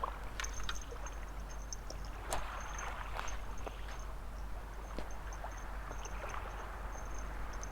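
Small waves washing and lapping on a beach, a steady wash of water with scattered small clicks.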